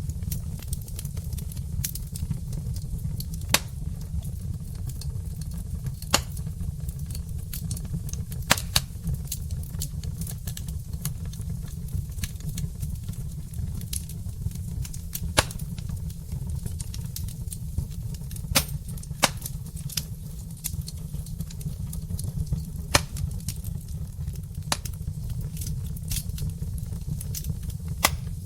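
Wood fire burning in a fireplace: a steady low rumble under many small crackles, with a louder sharp pop every few seconds.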